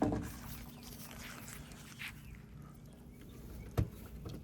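Parts being worked loose by hand in a car's engine bay: faint handling noises and one sharp knock near the end, over a steady low hum.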